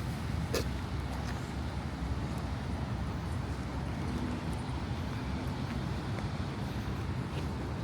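Steady low rumble of city traffic in the outdoor ambience, with a sharp click about half a second in.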